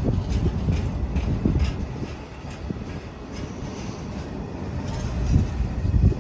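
A train running past on the main line: a low rumble that swells and eases, with irregular sharp clicks over it.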